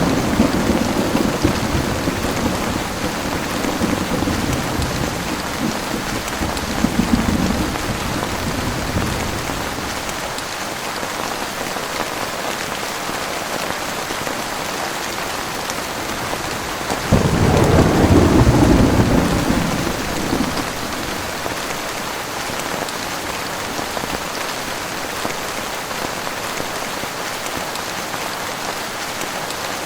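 Heavy rain pouring steadily throughout a thunderstorm. Thunder rolls at the start and fades out over several seconds; a new peal breaks suddenly about halfway through and rumbles for a few seconds before dying away.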